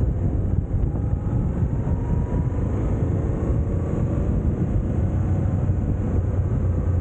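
A vehicle running steadily: a dense low rumble, with a faint engine whine that rises slowly in pitch through the middle.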